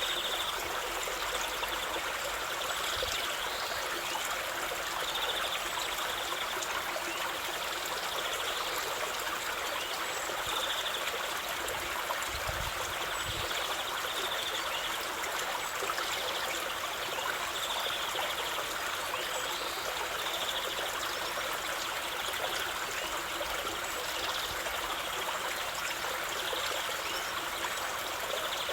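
Stream water running steadily over stones, with faint short high chirps recurring every couple of seconds.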